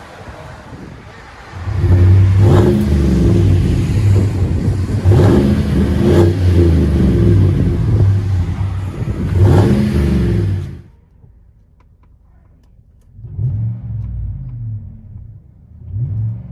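Vehicle exhaust through a 22-inch-body Magnaflow muffler as the engine is revved several times, each rev rising and falling in pitch, in a fairly deep, mild tone. About eleven seconds in the sound cuts off abruptly. The engine then comes back quieter and duller, rising twice more.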